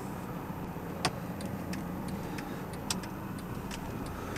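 Mercedes C220 CDI's four-cylinder diesel engine running at low revs, heard from inside the cabin as a steady low hum. Light clicks sound over it, two sharper ones about a second and about three seconds in.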